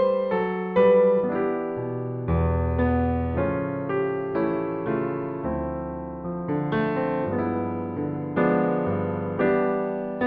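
Background music: piano or electric piano playing a gentle melody over chords, each note struck and fading.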